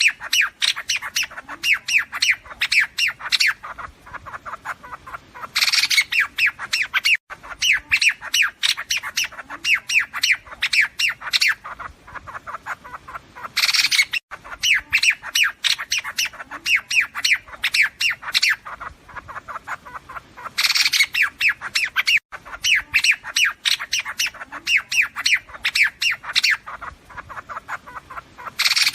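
Recorded calls of the liếu điếu bird, played as a flock-calling lure for trapping: a harsh chattering burst followed by a rapid run of sharp chirps, about five a second, the cycle repeating about every seven or eight seconds.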